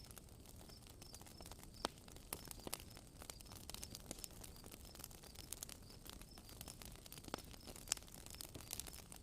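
Wood fire crackling, with a steady run of small snaps and a few louder pops, about 2 seconds in and near the end. Faint repeated high chirps sound throughout.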